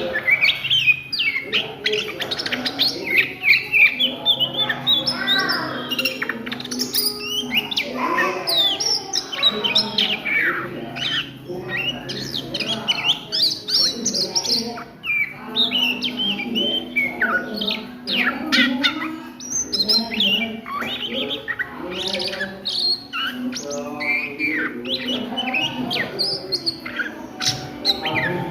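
Oriental magpie-robin (kacer) singing nonstop: a fast, varied stream of chirps, trills and rising and falling whistled notes with hardly a pause, the busy chattering song called ngriwik.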